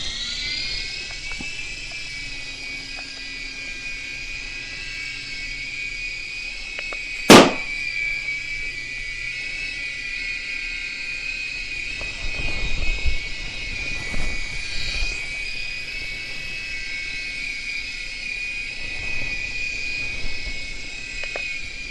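Air Hogs Sharpshooter coaxial toy helicopter's small electric motors whining steadily, the pitch rising at first as the rotors spin up. One very loud balloon pop about seven seconds in, with a few softer knocks later on.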